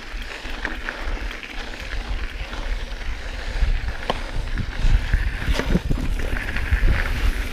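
Mountain bike riding over a dirt and rock singletrack: a steady rumble of tyres and wind on the microphone, with a few sharp clicks and rattles from the bike as it goes over bumps.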